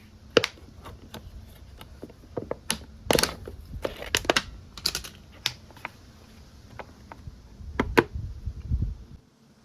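Irregular small clicks, taps and light knocks of hard plastic and metal parts being handled, with a few short rustling scrapes and a low rumble near the end.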